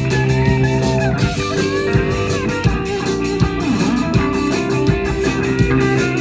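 Rock band playing: a lead electric guitar with bending, gliding notes over drums and a steady low bass.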